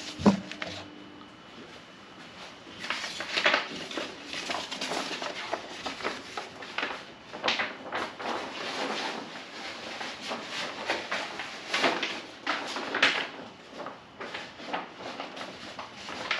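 Paper and plastic decal sheets rustling and crinkling as they are handled, with one sharp knock just after the start.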